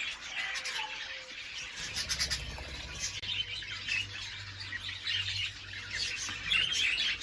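A flock of budgerigars chirping and chattering, many short high chirps overlapping throughout.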